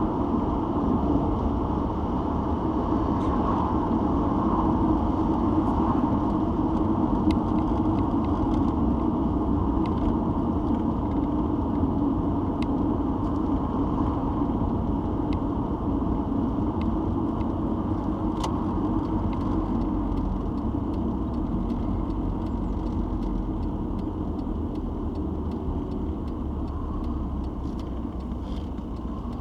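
Citroen XM being driven, heard from inside the cabin: steady engine and road rumble that eases off somewhat over the last several seconds.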